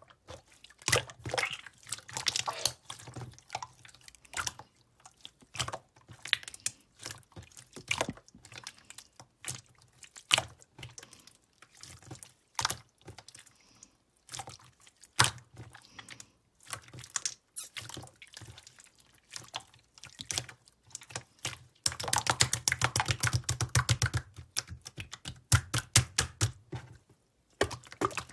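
Semi-transparent clear slime being squished and pressed by hand, giving irregular sticky clicks, pops and wet crackles, with a run of rapid clicking about 22 seconds in.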